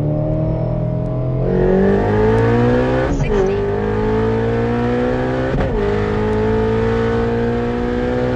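Shelby Mustang V8 engine pulling hard under full throttle, its pitch climbing steadily, with two upshifts about three and five and a half seconds in where the pitch drops and then climbs again.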